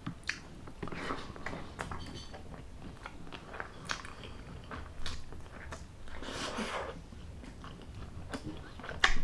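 Close-miked mouth sounds of chewing crunchy fried food, with irregular crackling crunches and a longer, louder crunch partway through.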